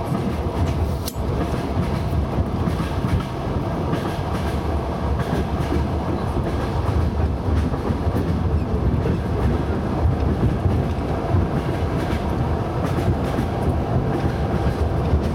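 Train running on the rails: a steady low rumble of wheels and carriage, with scattered clicks and one sharper click about a second in.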